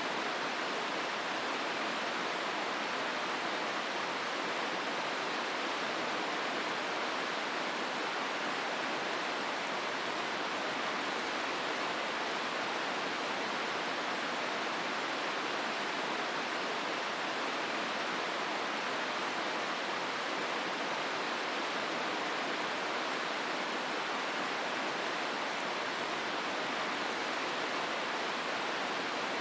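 Hozu River water rushing through the gorge: a steady, even rush of flowing water that does not change.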